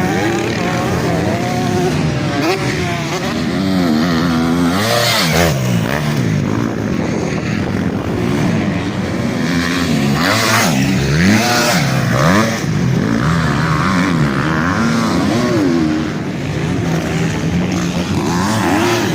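Several motocross bikes racing on the track, their engines revving up and falling back again and again as riders work the throttle, more than one bike heard at once.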